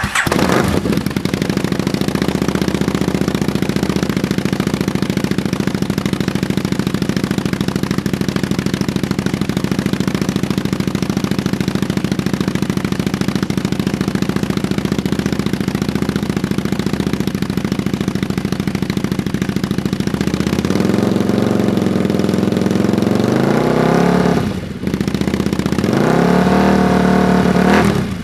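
Buell 1125's liquid-cooled V-twin through an aftermarket X1 Moto Werks dual exhaust, idling steadily, then revved up and down twice near the end with a short drop between the revs.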